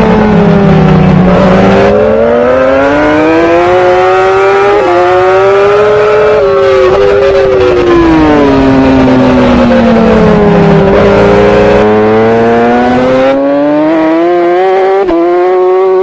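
Racing superbike engine heard from an on-bike camera: the revs fall away and climb again twice, with quick steps in pitch at the gear changes.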